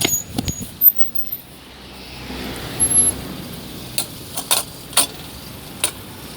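A car passing on the road, its noise swelling and fading, followed by a few sharp clicks.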